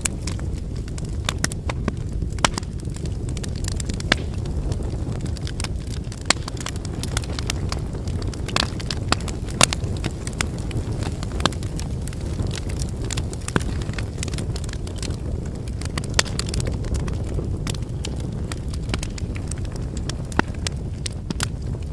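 Wood fire burning: a steady low rumble of flames with frequent sharp, irregular pops and crackles from the burning logs.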